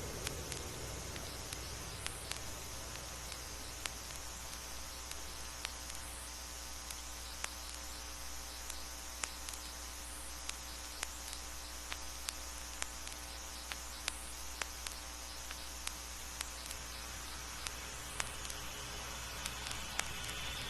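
Vinyl record surface noise: a steady hiss and low hum with scattered sharp clicks and pops, about one to three a second, and a faint steady tone beneath.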